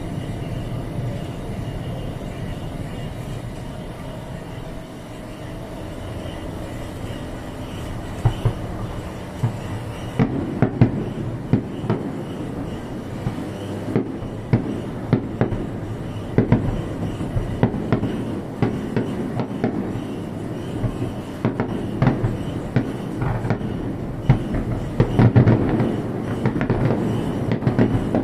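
A low, steady rumble with a faint held tone. From about ten seconds in, it gives way to irregular sharp bangs of fireworks bursting overhead, a bang every second or so, growing busier and louder near the end.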